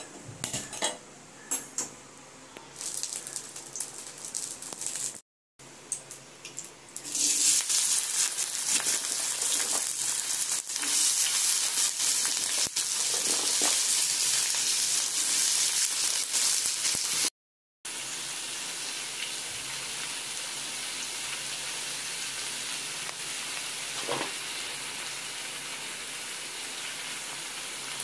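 Sliced ivy gourd (kovakka) frying in a pan, a loud sizzle that starts about seven seconds in and later settles into a steadier, softer sizzle. Before it, scattered clicks and knocks come from the pan on the stove.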